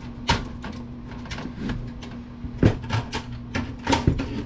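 Irregular knocks and clatter of metal parts being handled while working a motherboard loose inside a desktop PC case, about seven sharp clicks in all, over a steady low hum.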